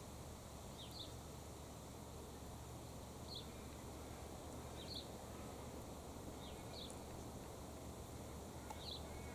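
Faint outdoor ambience with brief high bird chirps every second or two, over a steady low hum.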